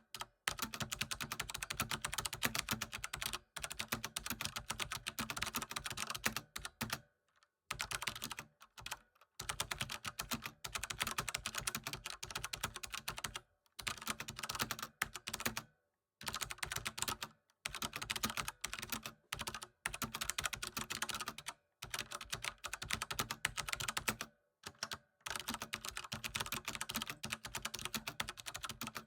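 Computer keyboard typing: fast, continuous runs of key clicks, broken by brief pauses of up to about a second.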